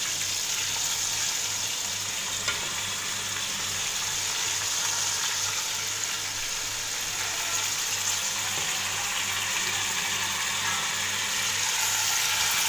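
Onions and tomatoes frying in oil in a pot: a steady sizzle, with a single light knock about two and a half seconds in.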